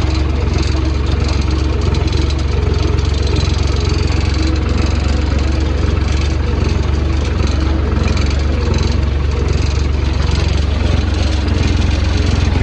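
Tractor diesel engine running steadily with a deep, even hum, as when pulling a subsoiler or fertiliser spreader.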